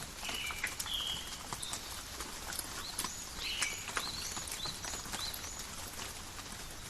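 Light rain falling in a forest, a steady hiss with individual drops ticking sharply. Short high animal chirps repeat every half second or so throughout.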